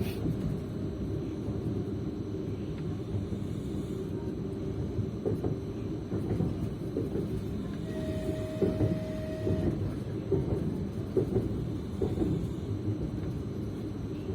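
Passenger train running, heard from inside a carriage: a steady low rumble of wheels on the rails with occasional clacks. About eight seconds in a thin steady tone sounds for under two seconds.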